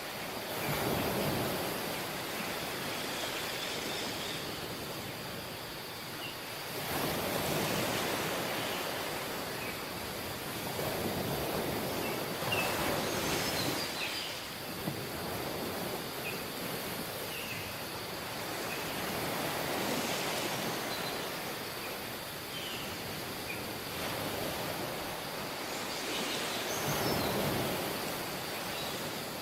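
Surf on a tropical beach: waves breaking and washing up on the shore, swelling every several seconds over a steady wash, with faint short chirps above.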